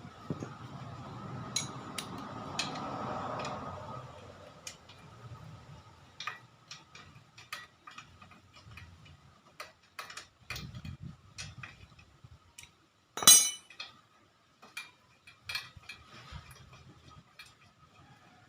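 Metal tools and small parts clicking and clinking as they are handled, with a louder metallic clatter about 13 seconds in. The engine is not running.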